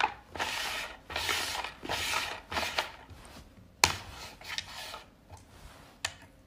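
Plastic lids sliding and scraping on a tabletop in several short strokes, then a sharp clack about four seconds in as a Labrador's paw comes down on a lid, and a lighter tap near the end.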